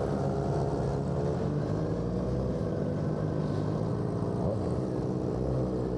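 Suzuki GSX-R600's inline-four engine with an M4 aftermarket exhaust running steadily at an even pitch.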